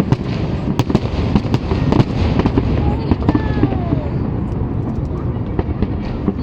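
Fireworks display: a dense, continuous barrage of booms and sharp crackling cracks, with a short falling whistle about three seconds in.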